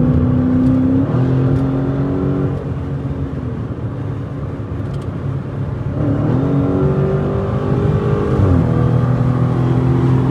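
Straight-piped Dodge Challenger Scat Pack's 392 HEMI V8 exhaust, heard from inside the cabin with the windows up, while driving. The engine note shifts in pitch as it accelerates and eases off, dipping and climbing again about six seconds in and once more near the end.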